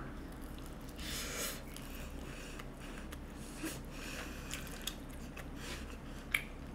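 A person chewing a mouthful of ramen fried rice, with a short hiss of breath about a second in and a few faint clicks, over a low steady hum.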